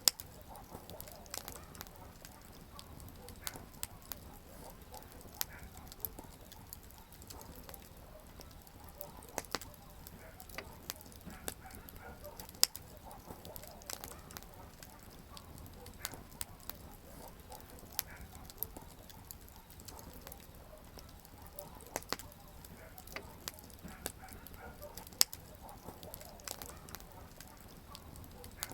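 Wood campfire burning with a steady low hiss and irregular crackling, the burning firewood giving sharp pops every second or so, two of them much louder.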